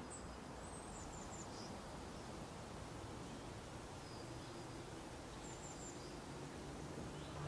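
Faint outdoor ambience, a steady hiss with a few short, high bird chirps: a quick cluster about a second in and another around six seconds. Low music tones start to come in near the end.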